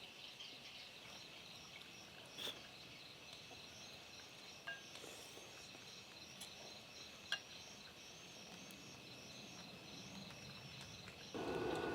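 Faint steady high drone of insects, with a run of chirps about twice a second and a few soft clicks. Near the end a louder rushing noise starts suddenly.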